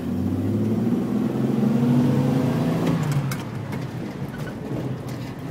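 Car engine accelerating, its pitch climbing slowly for about three seconds before it eases off to a lower, steadier run.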